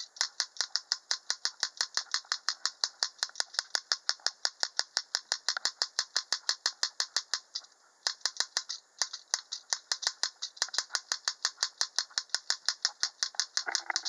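Steel rod on a homemade woodpecker toy striking a brass screw set in a wooden stump: a rapid, even metallic tapping of about five strikes a second, imitating a pileated woodpecker's pecking, with a brief pause about eight seconds in.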